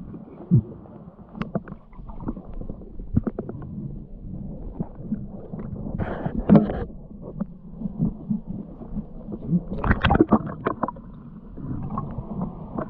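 Muffled underwater sound of a snorkelling dive: a low rumble with many scattered knocks and clicks, and a few brief gurgling, bubbly rushes about six and ten seconds in.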